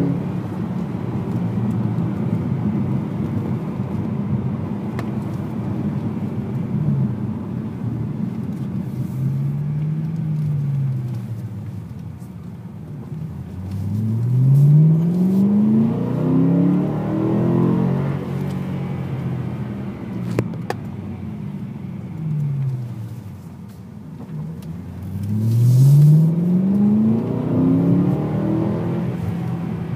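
BMW M3 engine heard from inside the cabin while it is driven up a winding road. It runs steadily, eases off twice, and revs up hard about 14 seconds in and again about 25 seconds in, with the pitch climbing each time.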